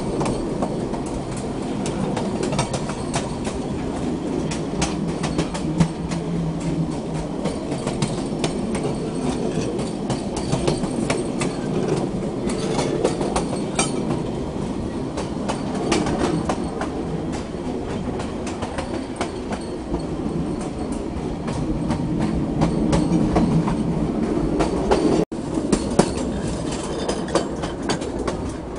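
Electric narrow-gauge train running, heard from on board beside the car's running gear: a steady rumble of wheels on rail with constant rattling and clicking from the track joints and car body. The sound drops out for an instant near the end.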